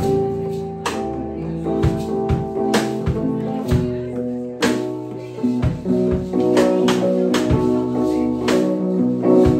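Live band playing an instrumental jam: guitar notes over bass, with steady drum hits.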